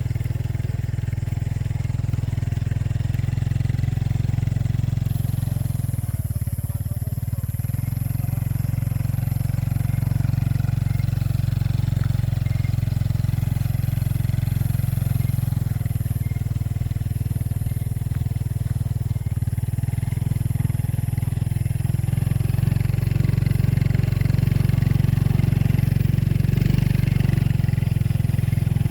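Motorcycle engine running at a steady pace, its low drone shifting slightly in pitch and strength a few times. A high, steady hiss sits over it for much of the time.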